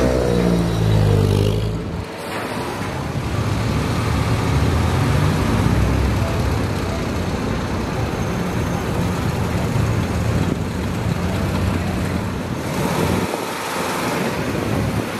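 Classic car engines running at low speed. One engine note falls away over the first two seconds, then a steady engine rumble continues, its pitch rising and dipping a few times.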